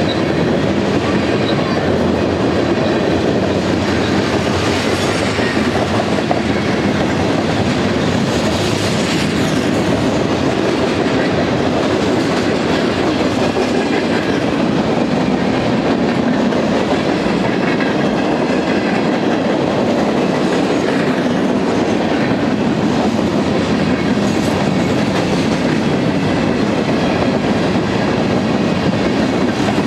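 Freight cars of a Union Pacific manifest train (covered hoppers and centerbeam flatcars) rolling past at close range: a steady, continuous noise of steel wheels running on the rails.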